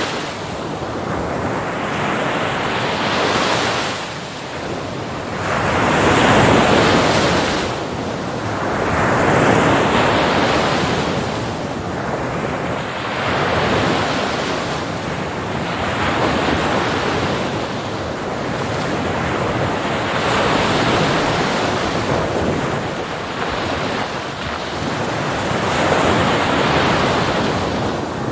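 Ocean waves breaking and washing on a beach, the surf swelling and falling back every few seconds.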